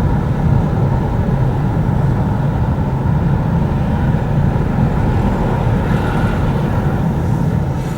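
Road traffic close by: car engines running steadily as vehicles move through the level crossing.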